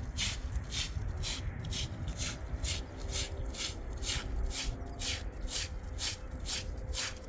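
A rhythmic, high-pitched pulsing sound, about three pulses a second, over a steady low rumble.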